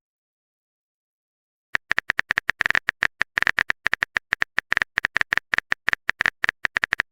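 Dead silence, then about two seconds in a fast, uneven run of short clicks, several a second: a phone-keyboard typing sound effect.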